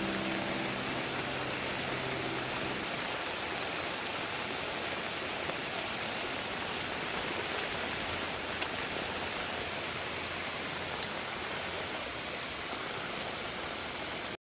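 Heavy rain falling steadily, an even hiss with a few sharper ticks of drops. Background music fades out in the first couple of seconds.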